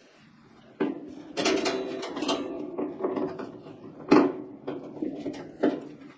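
Metal parts of a kerosene heater clanking and knocking as they are handled, with a brief ringing after the blows. The loudest knock comes about four seconds in.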